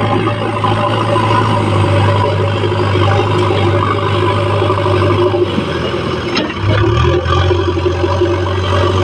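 Diesel engine of a JCB earthmoving machine running steadily under work, dipping briefly and picking up again about two-thirds of the way through.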